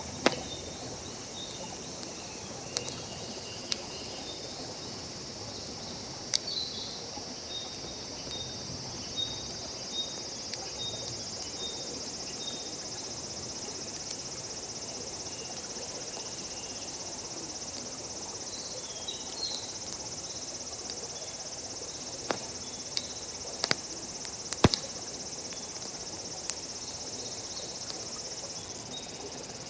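Wood fire crackling, with scattered sharp pops every few seconds, the loudest about a quarter of the way in and near the end, over a steady high insect chorus. For the first dozen seconds one insect repeats a short chirp about twice a second.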